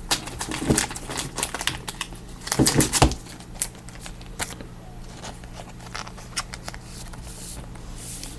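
Football trading cards and their packaging being handled: quick clicks, light crinkling and cards sliding against each other, in clusters about a second in and again around three seconds in, then only scattered clicks.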